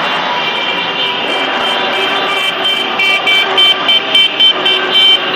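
Street traffic noise. From about halfway through, a horn sounds in short, repeated high-pitched toots, a few a second.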